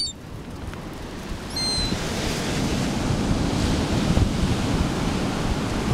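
Ocean surf washing ashore, swelling about two seconds in, with wind buffeting the microphone. A brief high-pitched call sounds once, about a second and a half in.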